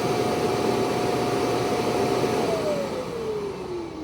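Mova V50 dock's auto-empty suction motor running with a steady whine, then winding down about two and a half seconds in, its pitch falling as the emptying cycle ends.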